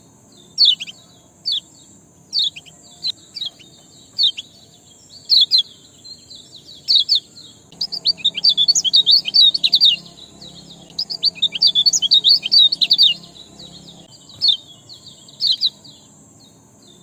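Small songbird (ciak) chirping: single sharp, downward-sliding chirps about once a second, twice breaking into fast twittering runs, over a steady high-pitched hiss.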